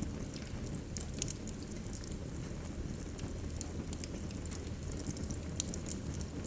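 Wood fire burning in a fireplace: a steady low rumble of the flames with irregular sharp crackles and pops of the burning logs, two louder pops about a second in and near the end.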